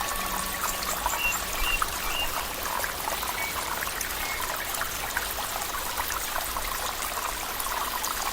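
Running water trickling and splashing steadily, as in a small stream, with a few faint high chirps between one and two seconds in.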